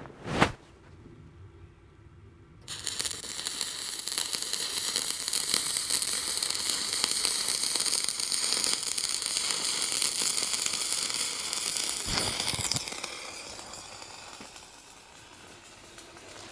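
A stick (MMA) welding arc crackling and hissing as a rod burns along a steel bucket edge, starting about three seconds in and running for about ten seconds before stopping. A single sharp knock comes just before.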